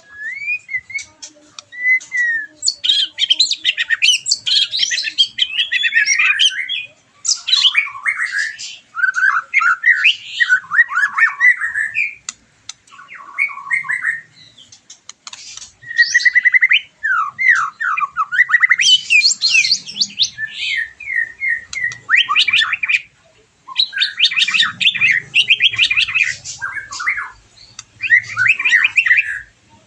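White-rumped shama (murai batu) singing a long, varied song of whistles and fast repeated notes, in loud phrases broken by a few short pauses; the bird has just come out of its moult.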